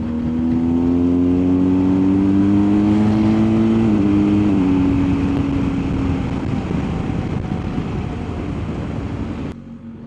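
BMW R1250GS boxer-twin engine pulling on the road under heavy wind rush: the engine note rises steadily for about four seconds, then steps down, and fades into the wind noise, which drops off sharply near the end.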